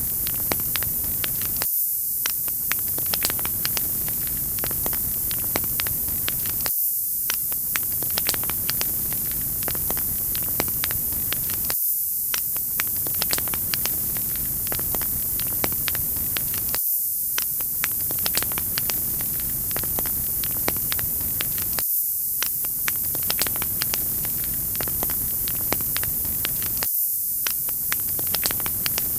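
Wood fire crackling, with frequent small pops and snaps over a steady hiss. It is a short recording looped about every five seconds.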